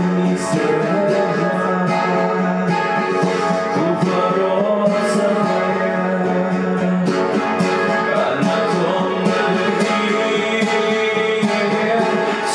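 Acoustic guitar playing a Belarusian folk song, with singing over it.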